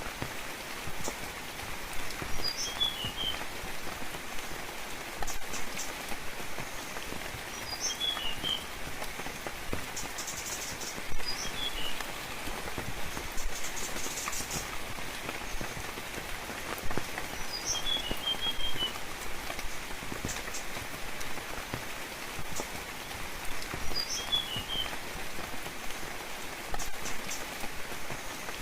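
Steady rain falling, with scattered louder drops close by. A bird repeats the same short chirping call five times, every few seconds: one high note followed by a quick cluster of lower notes.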